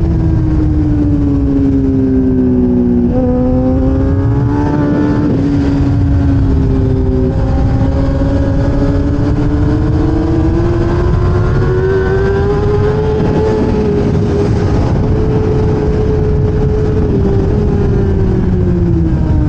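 1000cc race motorcycle engine heard onboard at speed, over heavy wind rush. The engine note falls at first, steps up about three seconds in and again shortly after as gears change, then climbs slowly, holds, and drops again near the end.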